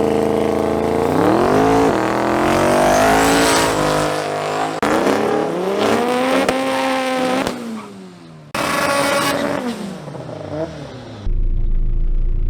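Performance car engines revving hard, their pitch climbing and dropping again and again as they shift through the gears, in several short stretches that break off abruptly. About eleven seconds in, this gives way to a steady low drone.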